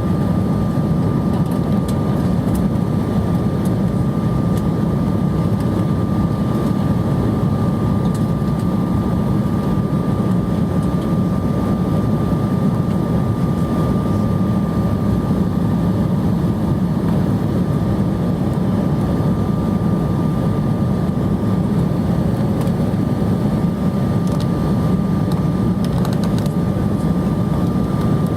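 Jet airliner cabin noise heard from inside, on descent to landing: a steady, deep roar of engines and airflow with a thin, high, steady whine running through it.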